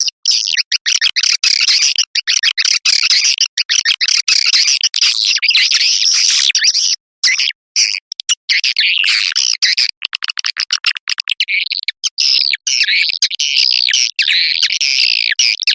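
Edible-nest swiftlet call-sound lure recording: a dense, rapid chatter of swiftlet chirps, broken by many brief gaps, that turns into longer rising-and-falling twitters about two-thirds of the way through. It is the kind of track played in a swiftlet house to draw swiftlets in to roost and nest.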